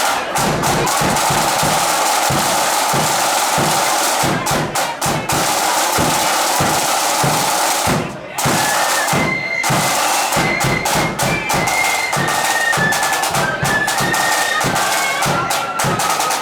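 Marching flute band playing: rapid snare and bass drum strokes throughout, with a brief break about halfway, after which a high flute melody moves in stepped notes over the drums.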